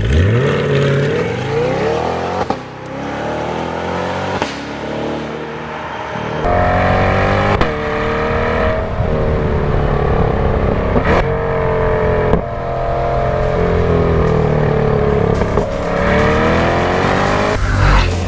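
C8 Corvette Stingray's naturally aspirated 6.2-liter V8 under hard acceleration, its pitch climbing and then dropping sharply at each gearshift, several times over.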